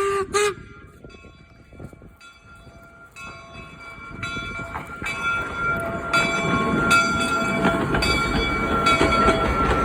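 Replica of the Central Pacific 4-4-0 steam locomotive Jupiter: two short whistle toots at the start. Then the locomotive draws closer, its running noise growing steadily louder, with clanks and steady high metallic ringing tones.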